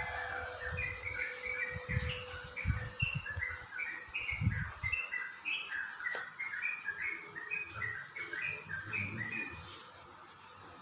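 Birds chirping: a rapid, busy string of short chirps that stops shortly before the end, with a few dull low thumps in the first half.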